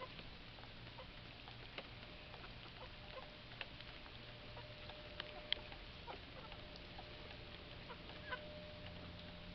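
Chickens clucking softly, with scattered short sharp ticks, the loudest about five and a half seconds in, over a faint steady background.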